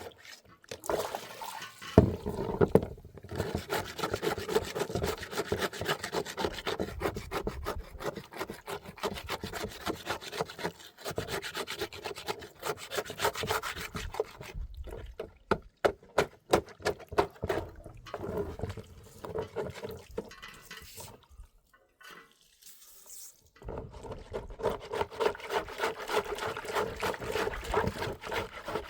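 Rapid, continuous scraping strokes over a wall surface as it is scraped clean to ready it for whitewash, with a short pause before the strokes resume.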